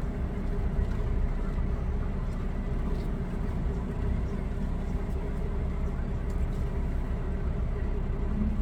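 Semi truck's diesel engine running steadily while the rig is maneuvered at low speed, heard from inside the cab as a continuous low rumble.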